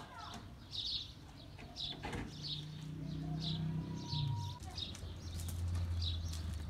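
A small bird chirping over and over, a short high chirp about every half second, over a low steady hum that grows louder in the second half.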